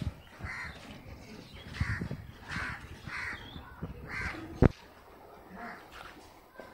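A bird calling about five times, short calls a second or less apart. One sharp knock shortly after the middle is the loudest sound.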